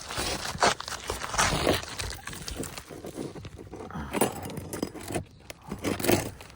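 Asphalt roof shingles being pried up and worked loose to reach their nails: irregular scraping and crackling, with louder strokes about half a second, a second and a half, four seconds and six seconds in.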